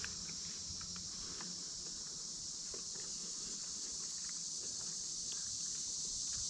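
Steady high-pitched chorus of night insects, such as crickets, with a few faint clicks scattered through it.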